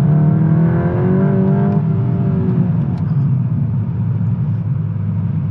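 The MK8 Golf GTI Clubsport's 2.0-litre turbocharged four-cylinder engine, heard from inside the cabin, rises in pitch under acceleration for about a second and a half, then eases off. Steady engine and tyre rumble carries on underneath.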